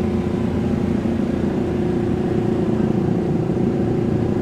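Suzuki GSX-R150's single-cylinder engine running steadily at low road speed, with a constant even drone.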